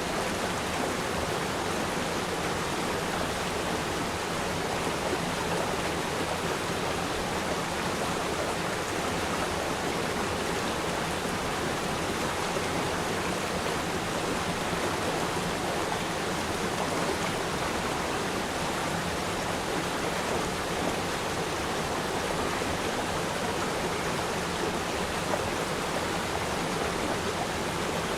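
A stream of water flowing steadily over rocks, an even, continuous rushing.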